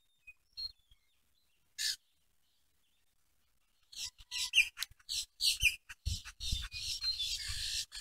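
Small birds chirping: a single short chirp about two seconds in, then a quick run of repeated high, sweeping chirps from about halfway on. A faint low rumble sits under the chirps near the end.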